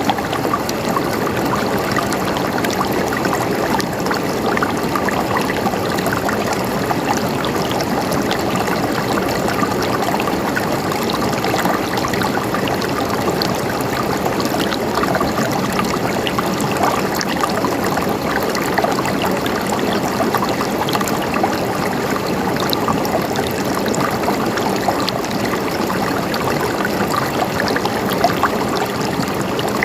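River water flowing steadily, a constant rushing and splashing with small trickles.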